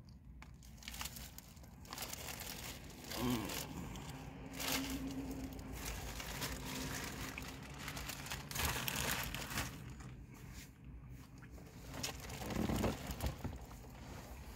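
A person chewing a mouthful of taco in a flour tortilla close to the microphone, the wet crackling mouth noises coming in irregular bursts, with a short low hum of voice about three seconds in and again near the end.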